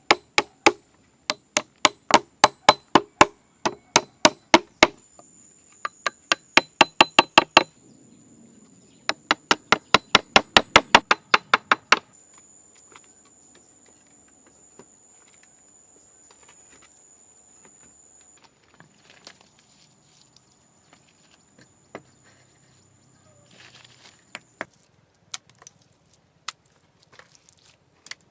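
A hand tool strikes wood in quick, even blows, about four a second, in three runs that stop about twelve seconds in. After that there are only scattered light knocks and taps.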